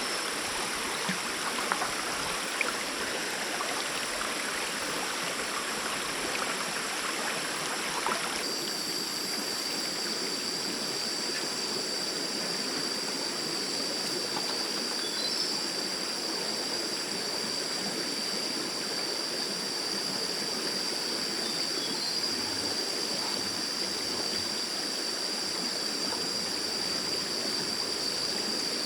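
Stream water running steadily over rocks, with a few small knocks in the first few seconds. About eight seconds in, a steady high-pitched whine joins the water sound.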